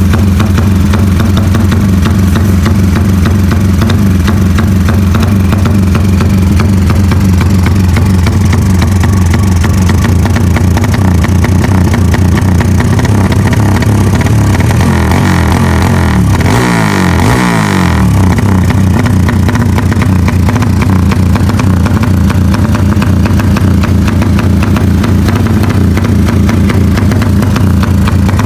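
Motorcycle engine running loud through an aftermarket 'helicopter' exhaust, a steady low throb. About sixteen seconds in it revs once, briefly, the pitch sweeping and settling back to idle.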